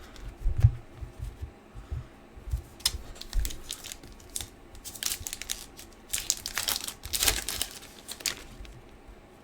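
Trading card pack wrapper being torn open and crinkled in hand, in irregular bursts that are busiest in the second half. A few dull knocks of handling come in the first second.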